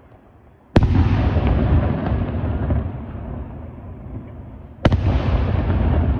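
Daytime fireworks: two loud shell bursts about four seconds apart. Each is a sharp bang followed by a long rumbling echo that dies away slowly.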